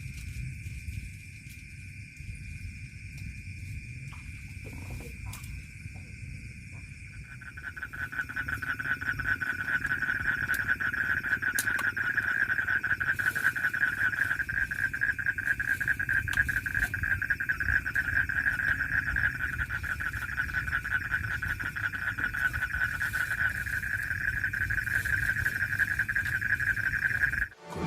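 Night-time chorus of calling frogs or insects: a steady high trill, joined about seven seconds in by a louder, rapidly pulsing trill that carries on.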